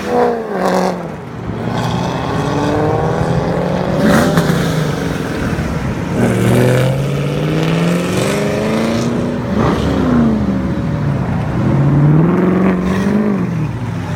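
Muscle car engine pulling hard, its pitch climbing and then dropping back again and again, every three seconds or so.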